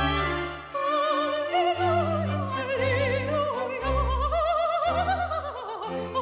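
Classical soprano voice singing with wide vibrato over an orchestra with strings. The voice comes in about a second in above the orchestra's held chords.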